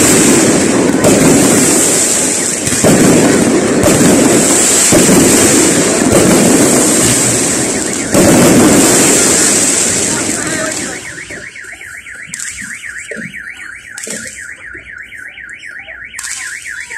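Fireworks firing a run of loud crackling bursts, several in quick succession. About eleven seconds in they stop, and a car alarm sounds a fast warbling wail, rising and falling about five times a second.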